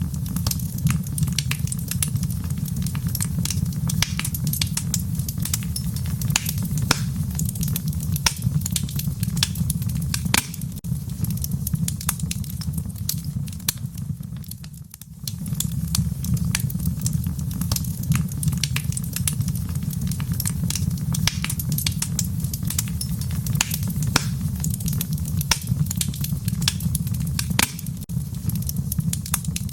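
Wood fire crackling in a fireplace: frequent irregular sharp pops and snaps over a steady low rumble of the flames. About halfway through the sound briefly dips, then picks up again.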